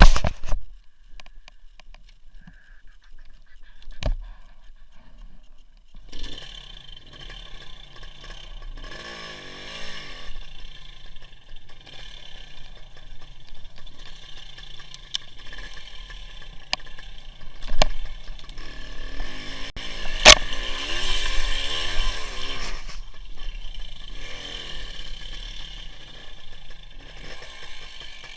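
WSK 175 two-stroke motorcycle heard from an onboard camera while riding: engine and wind and road noise, with a few sharp knocks. It is fairly quiet for the first six seconds, after which the engine, wind and road noise become steady.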